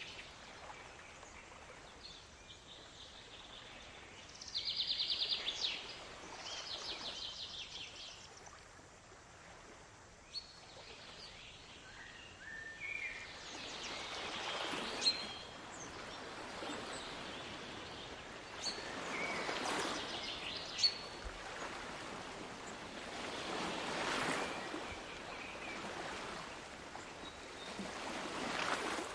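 Small birds singing, with rapid trilled phrases in the first few seconds and scattered chirps after. Under them, surf washes in and out in slow swells every four or five seconds, most plainly in the second half.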